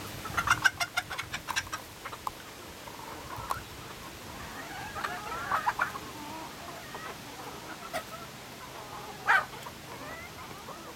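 Chickens clucking: a quick run of loud clucks near the start, softer scattered clucks in the middle, and one short sharp call near the end.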